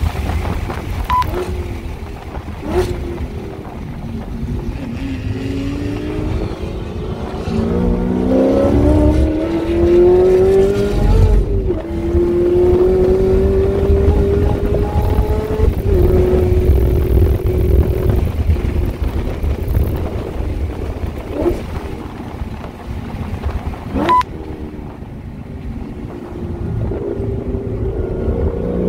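Chevrolet Camaro ZL1 1LE's supercharged 6.2-litre V8 heard from inside the cabin on track. The engine note climbs as the car accelerates out of a slow corner, drops at an upshift, then holds high. It falls away as the car brakes for the next corner and starts climbing again at the very end. Heavy wind noise throughout.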